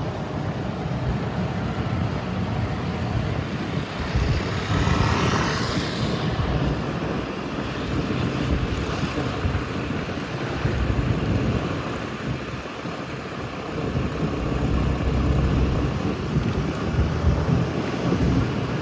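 Motorbike running while riding along a road, with wind buffeting the microphone. A louder rush, like a vehicle passing, comes about five seconds in.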